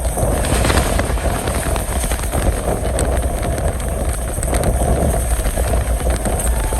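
A passenger train running along the line, heard from on board: a loud, steady rumble of wheels on the rails mixed with rushing air, with small scattered clicks.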